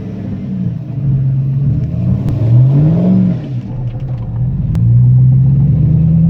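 Cammed Chevrolet 5.3L V8 with aftermarket intake and exhaust, revving: its pitch climbs and drops back about two to three seconds in, then holds steady and louder near the end.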